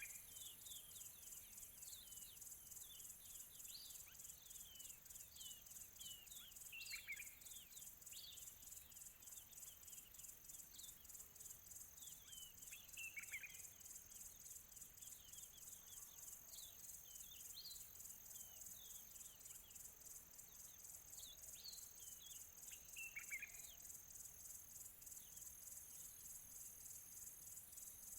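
Small birds chirping with short, high calls that sweep down in pitch, a few louder ones scattered among them, over a steady, very high, rapidly pulsing trill of insects. Faint overall.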